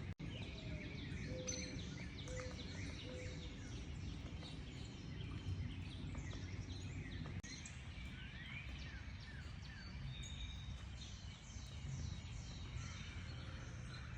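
A chorus of birds chirping, with many short calls and rising sweeps overlapping throughout, over a steady low background rumble. A few short low notes sound about a second and a half to three seconds in, and the sound cuts out for an instant just after the start.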